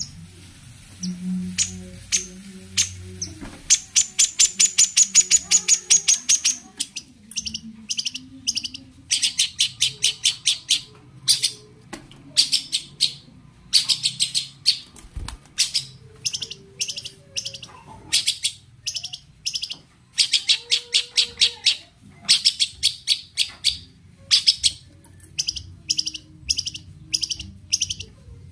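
Long-tailed shrike singing: runs of rapid, harsh repeated notes, about six a second. Each run lasts one to three seconds, with short pauses between.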